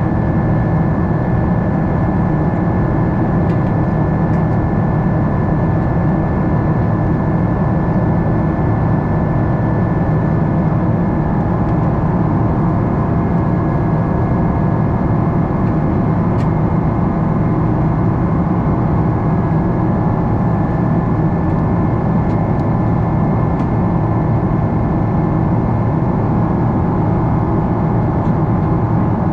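Steady drone of a Boeing 777-300 airliner's cabin heard from a window seat: jet engine and cabin noise with a few steady high whining tones running through it.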